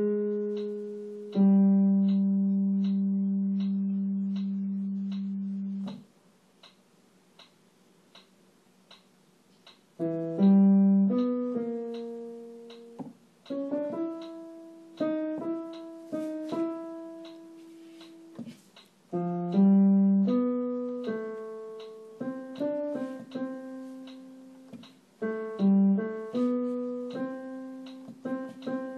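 Piano playing a tenor vocal line one note at a time: a long held note, about four seconds of rest, then a moving phrase. Faint regular ticks, about three every two seconds, sound throughout and are heard plainly during the rest.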